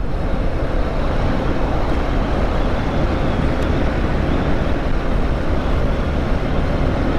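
TVS Apache RTR 160 2V's single-cylinder engine running steadily under way, with steady road and wind noise. It is running smoothly on fresh full synthetic oil.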